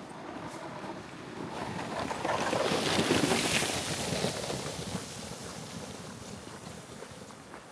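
A gust of wind rushing through the snowy spruce forest, swelling for a couple of seconds and dying away.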